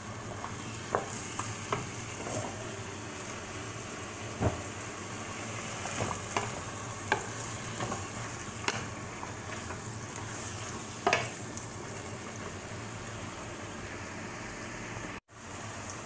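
Celery and squid stir-frying in a pan: a steady sizzle with irregular sharp clicks of a spatula against the pan, which stop about eleven seconds in while the sizzle goes on. The sound drops out for an instant near the end.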